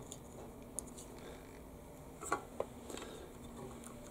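A few faint small clicks and taps of handling over a low steady hum, the clearest a pair about two and a half seconds in.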